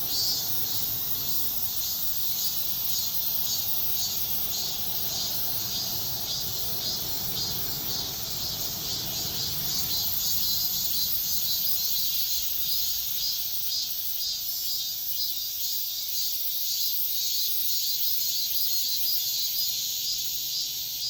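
Cicadas singing at dawn in a steady, high-pitched chorus with a fast pulsing buzz.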